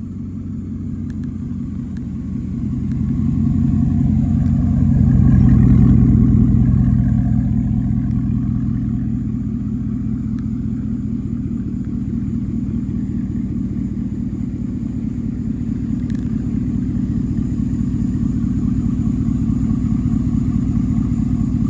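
A 2016 Chevrolet Silverado's 5.3-litre V8 idling through a straight-piped exhaust with no catalytic converters, muffler or resonator. The idle swells louder and a little higher about four to six seconds in, then settles to a steady idle.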